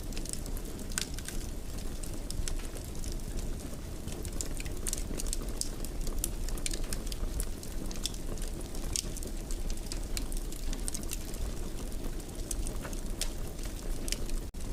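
Wood fire burning in a fireplace: a steady low rumble of flames with irregular sharp crackles and pops from the burning wood. The sound cuts out for an instant near the end.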